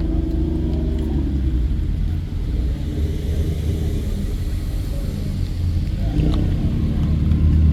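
Car engines running with a low rumble; in the first second a pitched engine note eases down.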